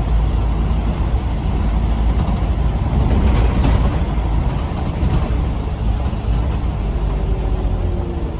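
Scania CN94UB OmniCity single-deck bus running steadily, with a brief hiss about three seconds in and a faint falling tone near the end.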